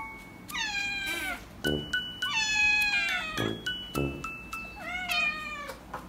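Kitten meowing three times: high-pitched calls that fall in pitch, about a second in, around the middle and near the end, with background music.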